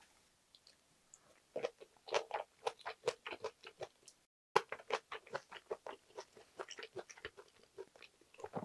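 A person chewing a mouthful of kimchi-braised pork belly and rice: a quick run of short chewing clicks, several a second, starting about one and a half seconds in, with a brief break a little after four seconds.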